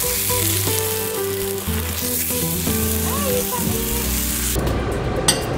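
Onion halves searing in oil in a frying pan: a steady sizzle over background music. The sizzle drops away sharply about four and a half seconds in, followed by a short clack.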